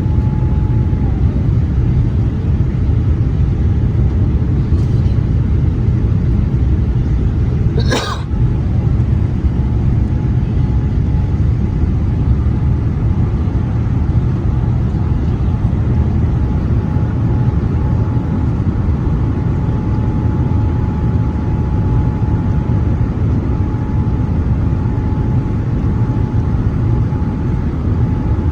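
Steady cabin noise of a Boeing 787-8 airliner in flight: a deep, even rumble of engines and airflow with a faint steady whine. A single short click sounds about eight seconds in.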